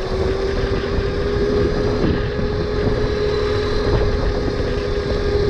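Tuttio electric dirt bike's motor whining at a steady pitch while being ridden, dipping briefly about two seconds in. Wind rumbles on the microphone underneath.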